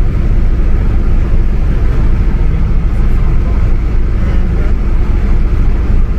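Steady, loud, low rumble of vehicle noise.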